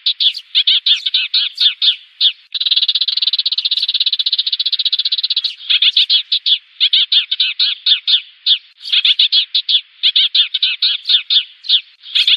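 Sparrows chirping in fast runs of short, high notes, with a long buzzy chatter of dense notes starting about two and a half seconds in and lasting about three seconds. This is a sparrow flock-calling lure call, used to draw sparrows in for trapping.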